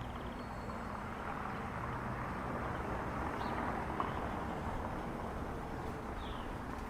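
Rainy street ambience: a steady wash of noise that swells toward the middle and eases off again, with a single faint click partway through.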